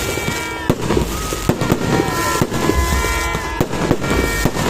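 Aerial fireworks bursting: a run of irregularly spaced sharp bangs over a dense crackle.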